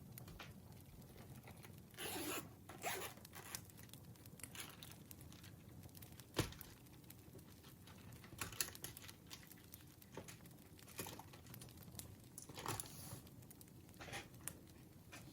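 Campfire crackling: irregular pops and snaps over a faint low rumble, with short spurts of dense crackle about two seconds in and again near the end, and one sharp snap a little under halfway.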